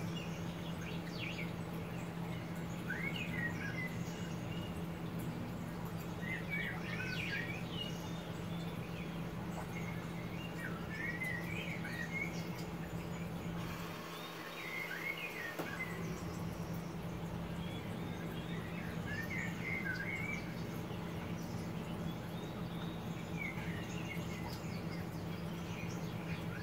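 A songbird singing short warbling phrases every few seconds, over a steady low hum and background noise.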